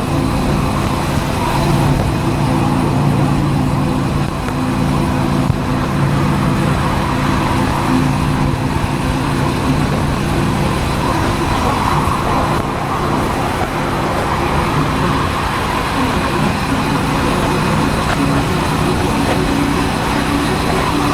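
Motorcycle engine running at a steady cruising pace under way, its note mixed with a steady rush of wind and road noise on a helmet-mounted camera.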